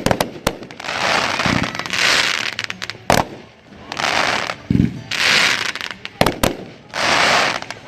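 Dominator American Thunder, a 500-gram consumer fireworks cake, firing a volley. Sharp reports of breaking shells come at irregular intervals, a pair of them close together past six seconds, and between them comes a repeated hissing wash, each lasting under a second.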